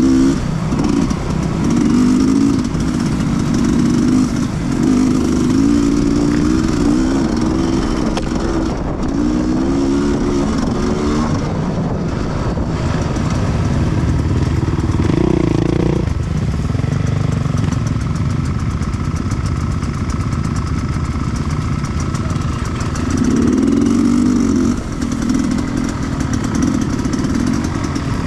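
Sherco 300 two-stroke enduro motorcycle engine running under the rider, revving up and easing off again and again as the throttle is worked.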